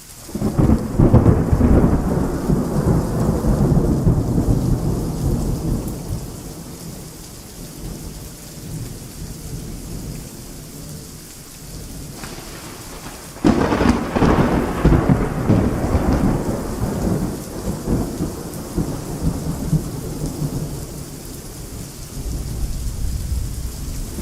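Thunderstorm: thunder breaks suddenly about half a second in and rolls away over several seconds, then a second loud clap comes about 13 seconds in, over steady heavy rain and hail.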